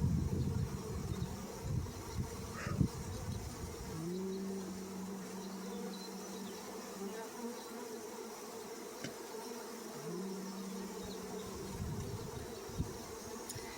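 A swarm of honey bees buzzing steadily around a hive box as they settle in. Twice a single bee's louder, steady hum passes close for a few seconds.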